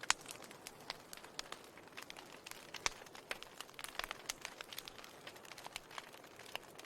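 Wood fire in a fireplace crackling, with a soft hiss under irregular sharp pops and snaps, a loud pop right at the start and another about three seconds in.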